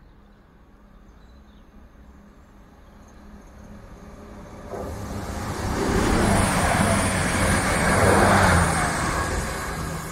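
Intercity passenger train passing through the station at speed: a faint rumble of its approach builds into a loud rush of wheels on rail and air, peaking about six to eight seconds in and then easing as it draws away.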